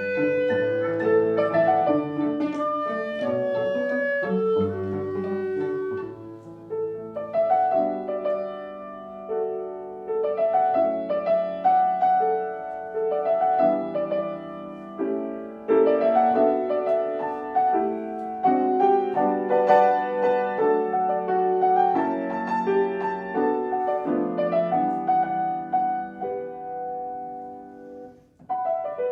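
Live classical chamber music: piano with clarinet and bowed strings playing together. The sound drops away briefly about a second before the end, then the playing picks up again.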